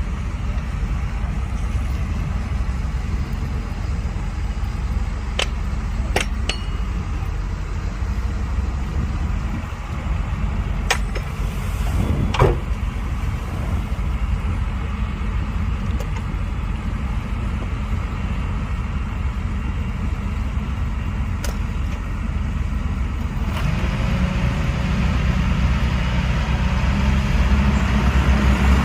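Heavy diesel earthmoving machinery running steadily with a low rumble, with a few sharp metallic clanks. The engine grows louder and fuller near the end.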